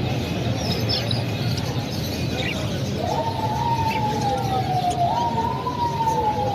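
Busy market din with small birds chirping now and then. About halfway through, a siren-like wail starts: it rises quickly, then slides slowly down, jumps up once and slides down again.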